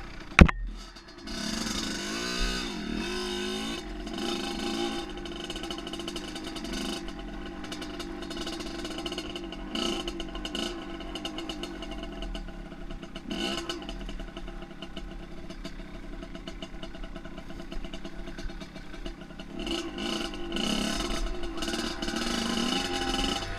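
Dirt bike engine running, revving up and down for a few seconds and then holding steadier, with a single sharp knock near the start.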